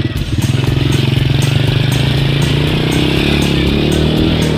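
Motorcycle engine running, its revs rising a little in the middle and easing off near the end.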